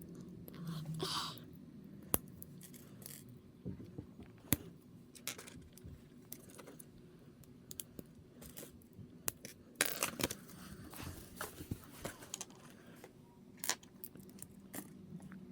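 Small plastic model-kit parts being handled and pressed together by hand: scattered sharp clicks and light scraping, with a busier run of clicks about ten seconds in.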